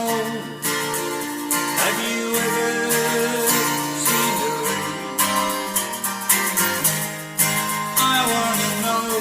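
Slow acoustic guitar music: chords strummed about once a second, with sustained notes ringing over them.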